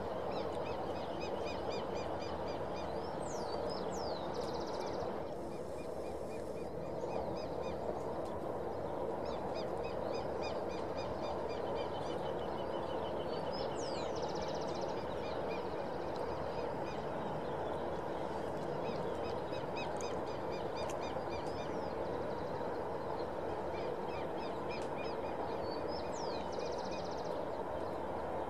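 Birds chirping in quick repeated series, with now and then a quick falling whistle, over a steady low rumble.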